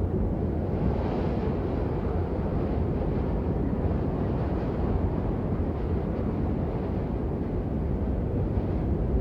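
Steady rain: an even, deep rushing noise with no breaks, heaviest in the low range.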